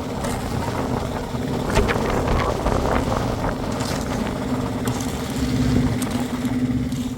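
A small engine running steadily, with scattered knocks and scraping over it.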